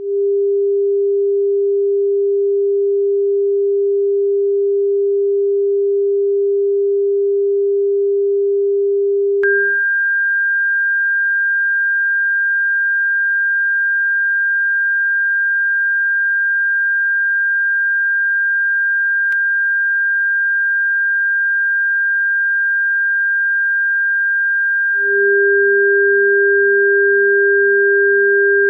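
Electronically generated pure sine tones, sold as a bird-repellent frequency. A steady low tone cuts off with a click about nine seconds in and gives way to a steady higher tone. Another faint click comes about two-thirds through, and the low tone comes back under the high one near the end.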